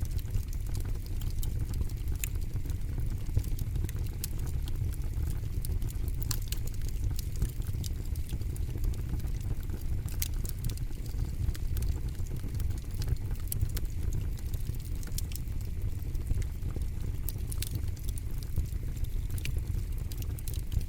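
Campfire burning with irregular sharp crackles and pops from the burning wood over a steady low rumble of the flames.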